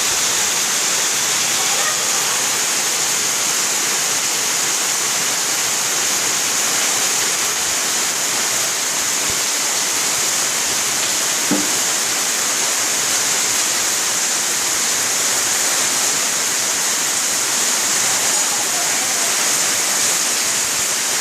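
Heavy rain falling steadily: a loud, even hiss with no let-up.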